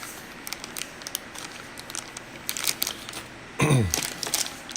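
Plastic packaging crinkling and crackling as polishing pads are handled and unwrapped, in irregular small crackles. About three and a half seconds in there is a brief loud tone that slides steeply downward.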